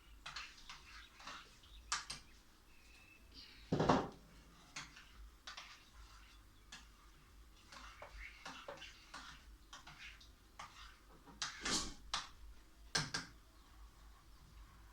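Scattered clinks and knocks of kitchen utensils against a pot and dishes, with a louder knock about four seconds in and two more near the end.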